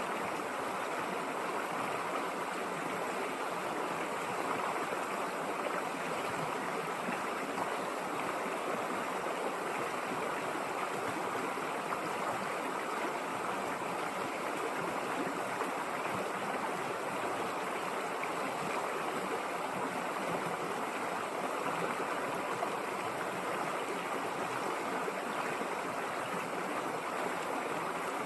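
River water rushing and babbling over rocks in a steady, even flow.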